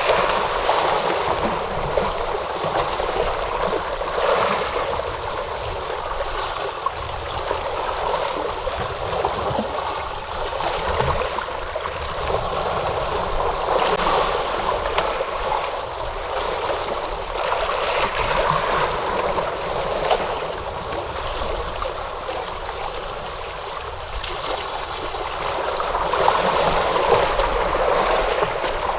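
Ocean waves breaking and washing in: a continuous rushing hiss that swells and ebbs every few seconds.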